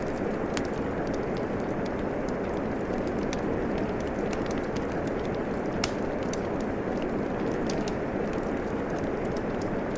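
Steady rain with a wood fire crackling over it: scattered sharp pops and ticks, one louder pop about six seconds in.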